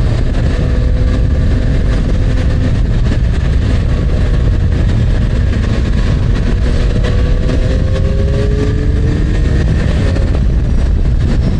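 Wind rushing over the microphone of a moving motorcycle, with the Yamaha MT-09's three-cylinder engine running underneath while riding; the engine note rises slowly a few times near the end.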